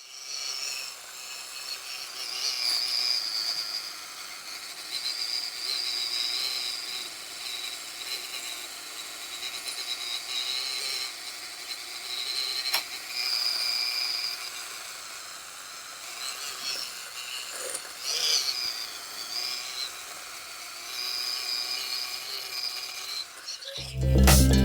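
Scholl Velvet Smooth Pro electric foot file running on high speed, its grinding roller abrading hard dead skin off the sole. It gives a high whine that wavers up and down as it works, and music cuts in near the end.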